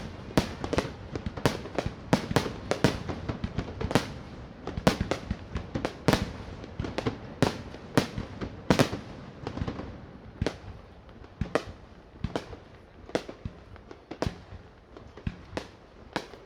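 Aerial fireworks bursting in rapid, irregular succession, each a sharp bang with an echoing tail. The bangs come thick and fast for the first ten seconds or so, then grow sparser and a little quieter.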